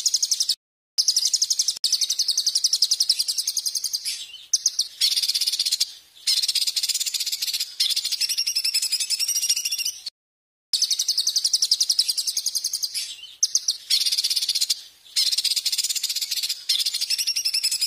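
Songbird recording used as tutor song: long, very rapid, high-pitched buzzy trills sung in phrases of several seconds, broken by short pauses, with a silent gap of under a second about ten seconds in.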